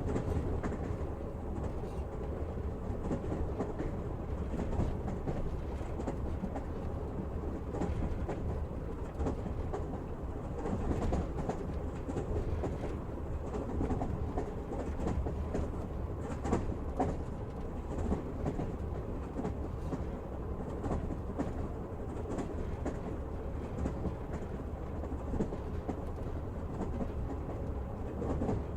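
Passenger train running steadily, heard from inside the carriage: a continuous low rumble of wheels on rails, with scattered sharper clicks as the wheels cross rail joints.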